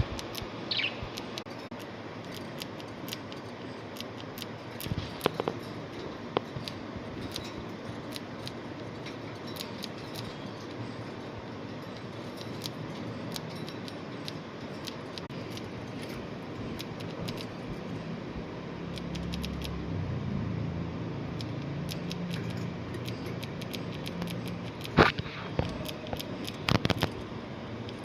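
Budgerigars in a cage making scattered sharp little clicks and taps over a steady hiss, with a low hum for several seconds in the second half.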